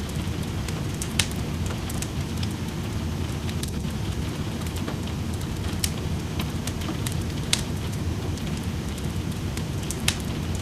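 Wood fire in a fireplace crackling, with many small ticks and four louder sharp pops spread through, over a steady hush of rain and a low rumble.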